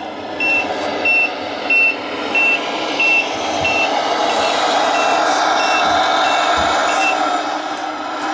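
Reversing beeper of a Tamiya Scania 770S model truck: a single high beep repeating about every two-thirds of a second over the truck's steady running sound. The beeps stop about a second before the end.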